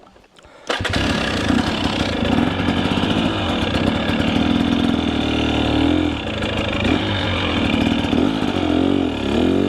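A two-stroke dirt bike engine, a KTM 300 EXC, starts abruptly about a second in and then runs steadily at a fast idle, with brief throttle blips near the middle and again near the end.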